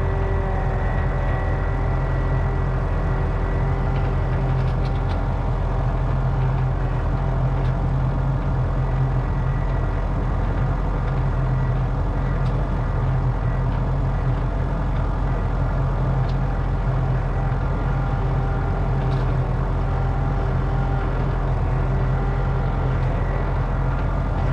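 An engine running steadily at constant speed, with a few faint clicks and knocks over it.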